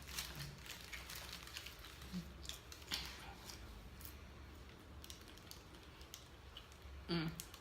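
Close-up eating sounds: chewing with many faint crisp crunchy clicks, busiest in the first few seconds, and a brief voiced sound near the end.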